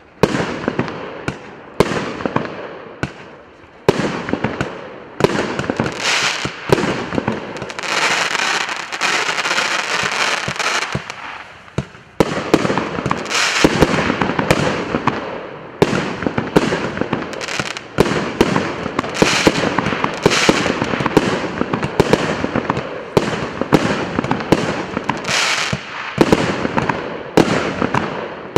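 A 99-shot, 1.1-inch fireworks cake firing in rapid succession: sharp launch thumps with bursts and crackling, with a thick spell of crackle about a third of the way in and shots coming faster after that.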